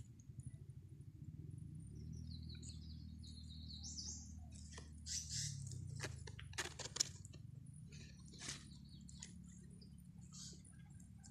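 Faint chirping of small birds: a quick run of high chirps about two to four seconds in, then scattered short sharp calls, over a low steady hum.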